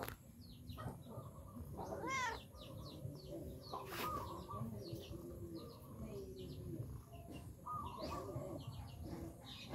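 Small birds chirping over and over, with one longer rising-and-falling call about two seconds in.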